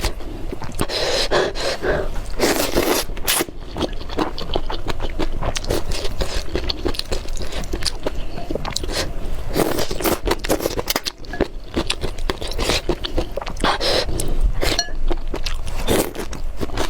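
Close-miked eating of spicy noodles: chewing and slurping, with quick wet clicks and smacks throughout.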